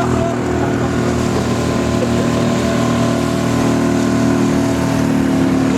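Outboard motor of a small aluminum boat running steadily under way, a continuous engine drone.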